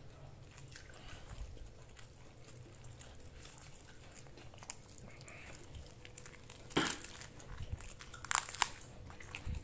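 Quiet eating sounds: chewing with small clicks and crinkles, and a few sharper clicks in the second half.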